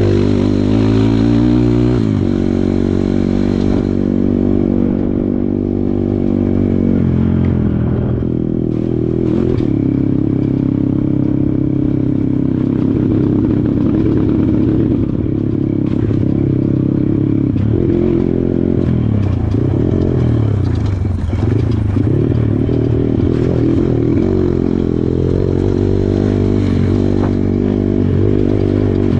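Kawasaki KLX140 dirt bike's small single-cylinder four-stroke engine running under changing throttle, its pitch rising and falling repeatedly. Scattered clattering knocks run through it.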